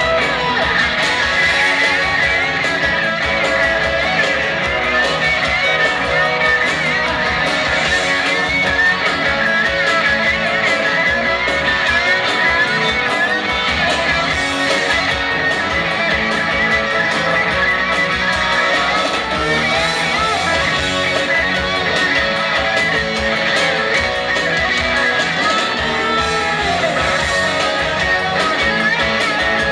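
Rock band music with an electric lead guitar playing fast, winding solo lines over the band.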